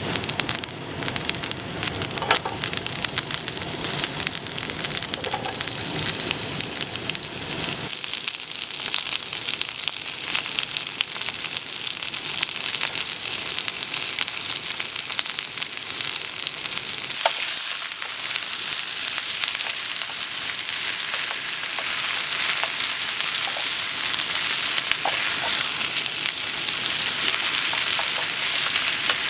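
Food sizzling and frying in a pan, a steady crackling hiss with many small pops.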